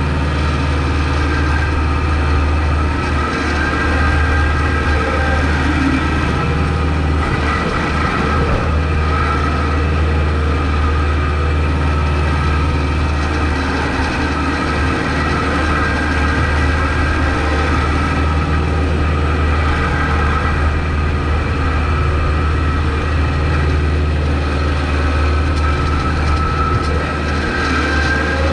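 Kubota MX5200 tractor's diesel engine running steadily.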